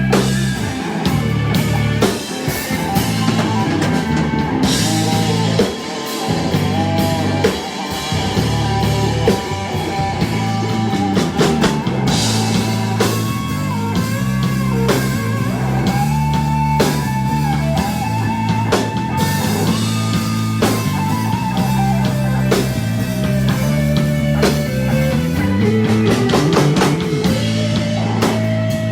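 Live rock band playing an instrumental stretch of a song: a lead electric guitar line with bent, sliding notes over a steady bass line and a drum kit.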